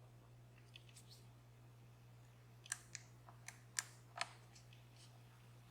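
Faint, scattered metallic clicks of a lock pick working the pins of a DOM Plura lock, about six separate ticks starting around halfway through, over a steady low hum.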